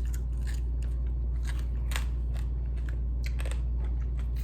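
Chewing and crunching on crispy refried chicken feet: scattered sharp crunches, several a second, over a steady low hum.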